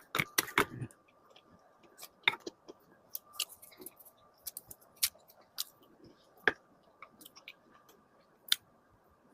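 A pet animal eating castella sponge cake: irregular sharp clicks and short wet smacks of chewing and biting, a few loud ones and many faint ones, over a faint steady high hum.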